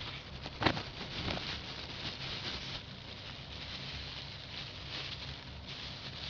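Descaling solution fizzing and crackling in a kettle as the freshly added cleaning agent reacts with the limescale. A single sharp click comes less than a second in.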